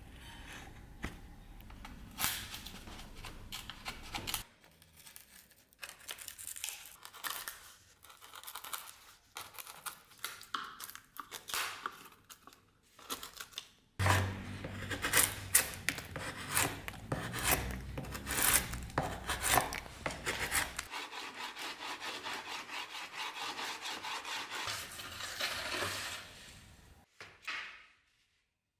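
Hand work on a workpiece: repeated rubbing and scraping strokes of a tool or abrasive, changing abruptly about four and fourteen seconds in, and fading out near the end.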